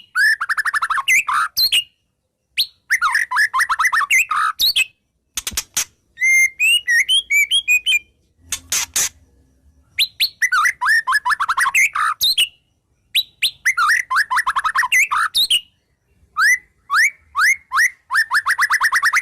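White-rumped shama (murai batu) singing: phrases of fast, repeated rising whistled notes, each a second or two long, separated by short gaps. A couple of brief dry clicking rattles come around the middle.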